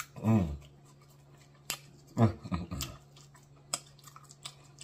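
A man chewing a big bite of crescent roll, with wet mouth clicks and smacks and two short voiced 'mmm' moans of enjoyment, one just after the bite and another about two seconds in.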